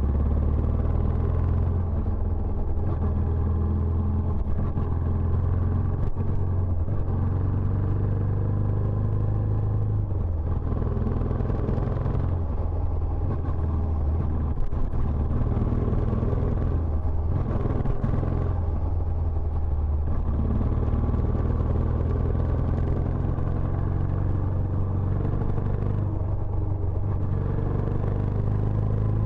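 Benelli Imperiale 400's air-cooled single-cylinder engine running through its stock exhaust, a steady low exhaust note that shifts slightly in pitch now and then.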